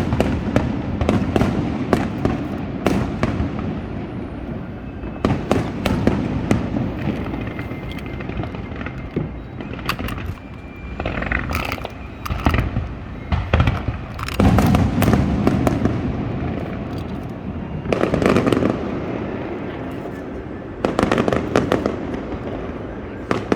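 Fireworks show going off: a dense run of sharp cracks and bangs, with heavier booming volleys every few seconds.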